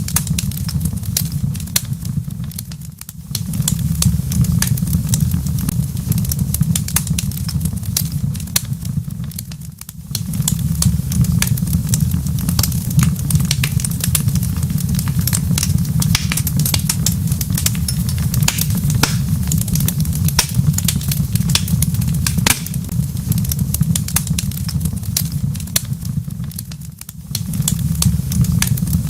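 Wood fire crackling in a fireplace: dense, irregular pops and snaps over a steady low rumble of flames. The rumble fades out briefly three times.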